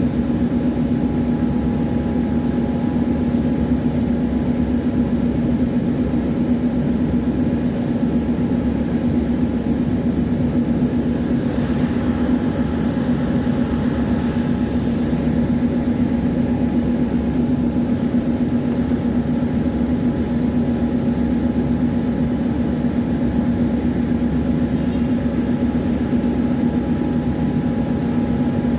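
Tram running, heard from on board: a steady low rumble with a constant humming tone, unchanged throughout.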